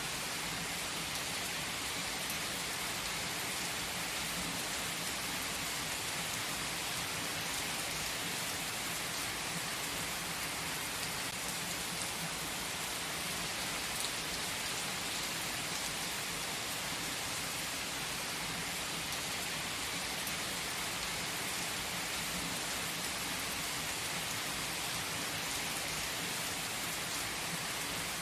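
Steady rain falling: a constant even hiss with faint scattered drop ticks.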